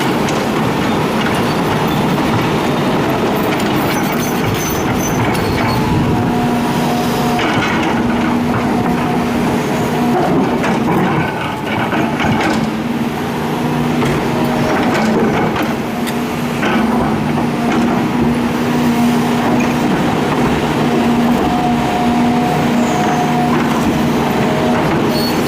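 Hitachi excavator's diesel engine running steadily, with a continuous heavy mechanical clatter from the machine at work.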